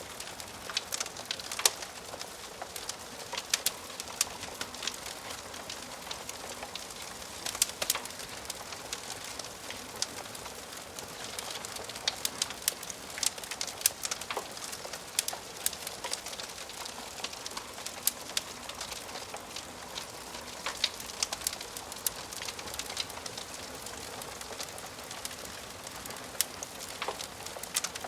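Wood fire crackling in a fireplace: a steady soft hiss with frequent sharp pops and snaps from the burning logs.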